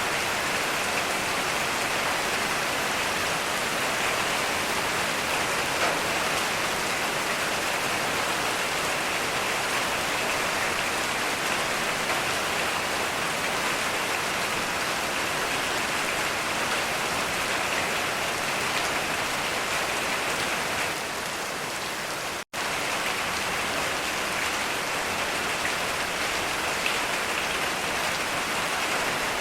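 Heavy rain falling steadily, a dense even hiss of drops. About three quarters of the way through it dips slightly and cuts out for an instant before carrying on.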